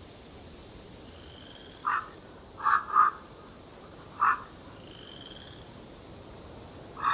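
Wild animal giving short, repeated calls, five in all, two of them close together about three seconds in, over a steady background hiss. Two faint, thin, high drawn-out notes sound in between.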